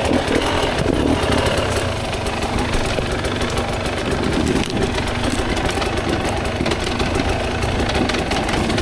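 Dirt bike engine running at low, uneven revs while the bike picks through rough terrain, with many irregular short knocks and clatter from the bike jolting over rocks and drops.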